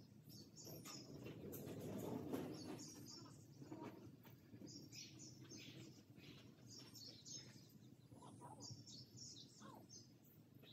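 Faint chirps of small birds, scattered throughout, over low, even background noise that swells a little in the first few seconds.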